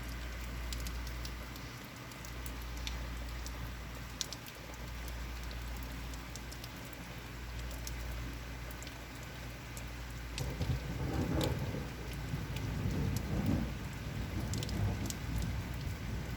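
Steady rain falling, with scattered sharp drop ticks. About two-thirds of the way through, a louder low rumble comes in and lasts to the end.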